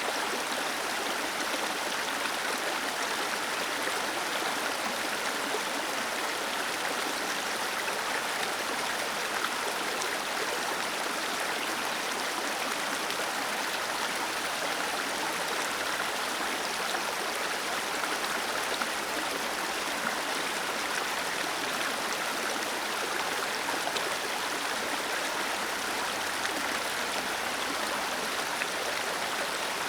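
Small waterfall splashing and rushing steadily over stones.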